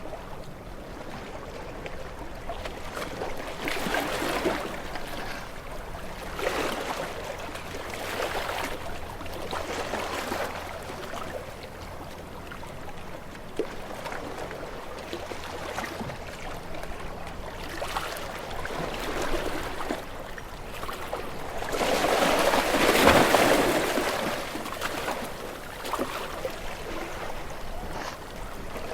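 Small waves lapping and washing onto a shore, each swell rising and falling every two or three seconds, with a bigger wave breaking about three-quarters of the way through.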